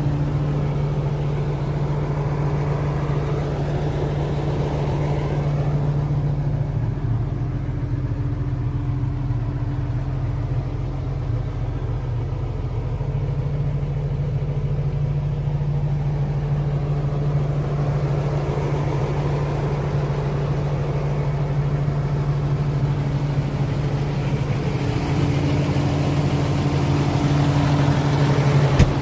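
John Deere 7810 tractor's six-cylinder diesel engine running steadily at low revs, with its engine speed dipping slightly and recovering a couple of times. A single sharp click comes near the end.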